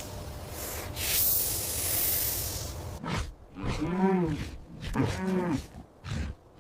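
Recorded animal calls: a noisy, hissing roar-like sound, then from about halfway through several short pitched calls that rise and fall in pitch.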